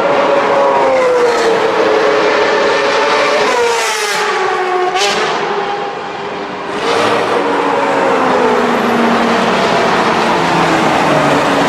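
Supercars driving past one after another with loud exhaust notes that slide in pitch as each goes by, and a short lull about six seconds in before the next car comes through.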